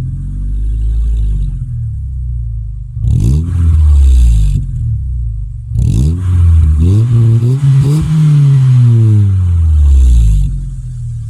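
Toyota Corolla E11's 1.6 L 4A-FE four-cylinder engine revving through an Ulter Sport cat-back exhaust with an 80 mm tip. Several revs rise sharply from idle and drop back: a mild one at the start, sharp ones about three and six seconds in, a few quick blips, then a longer rev that rises and falls back to idle near the end.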